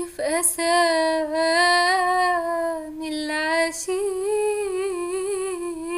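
A single unaccompanied high voice humming a melody without words, in long held notes with vibrato and a few short breaks.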